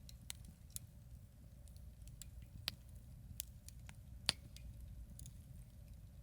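Wood campfire crackling: irregular sharp snaps and pops, the loudest about four seconds in, over a low steady rumble.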